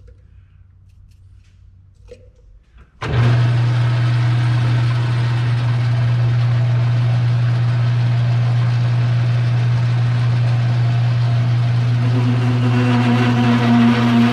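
A few faint clicks, then about three seconds in a machine's electric motor comes on abruptly and runs with a loud, steady hum. The hum grows fuller with added overtones near the end.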